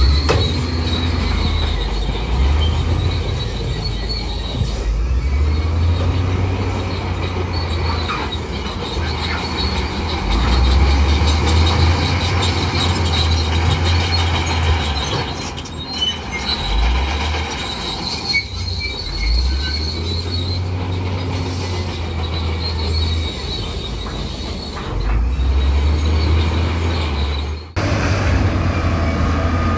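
Crawler bulldozer working in mud: its diesel engine labouring, the pitch rising and falling as it pushes, with the steel tracks squealing and clanking. There is a sudden break near the end.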